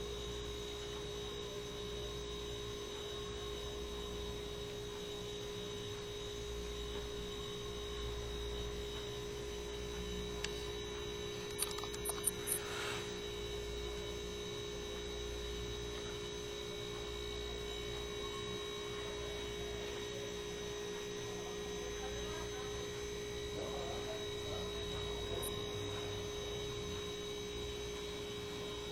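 Steady electrical hum with a couple of steady high tones above it, and a few faint clicks about eleven to thirteen seconds in.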